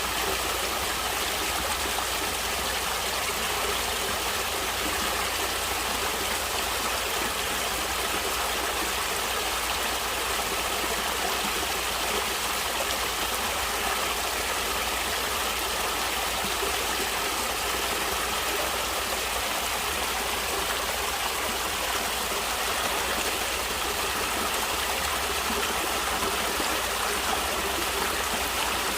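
Natural running water, a stream flowing in a steady, even rush with no breaks.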